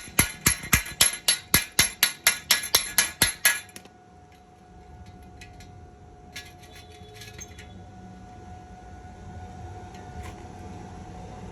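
Rapid, even metallic tapping, about five strikes a second, that stops about four seconds in, followed by a few faint scattered clicks.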